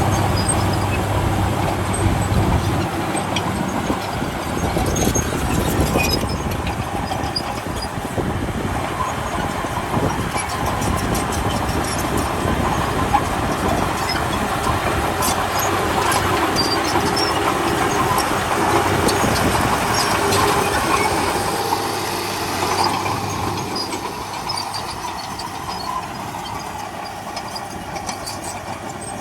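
Komatsu D31P crawler bulldozer working: diesel engine running under load with steel tracks clanking and rattling. The engine hum and overall noise ease off near the end.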